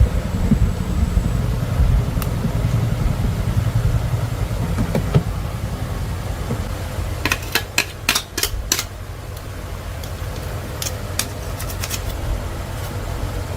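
An engine or motor running steadily with a low rumble. A quick run of sharp clicks or knocks comes about halfway through, and a few more follow near the end.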